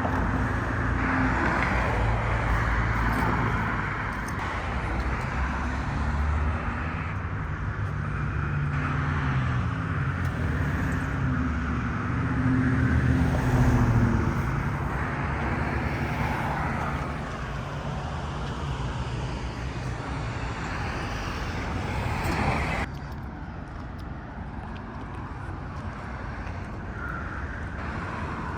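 City street traffic: cars driving past with a steady engine and tyre hum, one engine's pitch rising and falling around the middle. The sound drops suddenly to a quieter traffic hum about three quarters of the way through.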